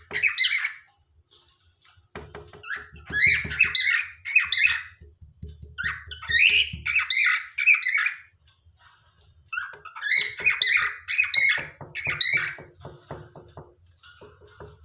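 Cockatiel chirping and warbling in phrases of quick high notes, each a second or two long, with short pauses between.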